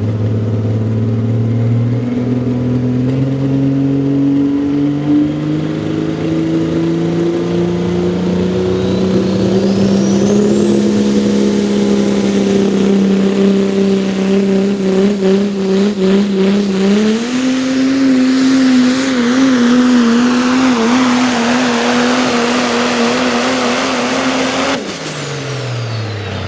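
Diesel 4x4 pickup truck engine under full load, pulling a sled down the track. The engine note climbs steadily, then jumps higher about seventeen seconds in and holds there, wavering. It falls away sharply near the end as the pull ends. A high whistle rises over a few seconds midway through.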